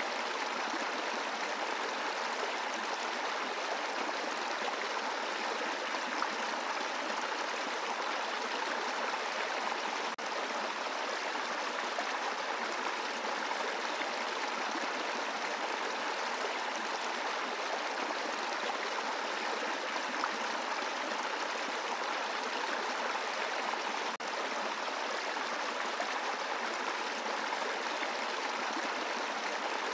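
A brook running over rocks: a steady, even rush of flowing water.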